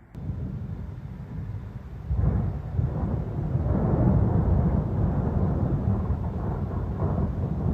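Thunder rumbling: a long, low roll that swells about two seconds in.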